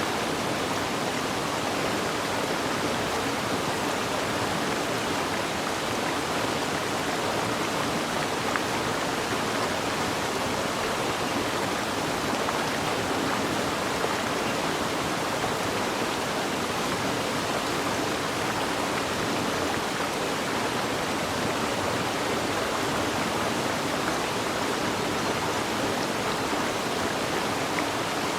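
Stream water rushing steadily, an even unbroken rush.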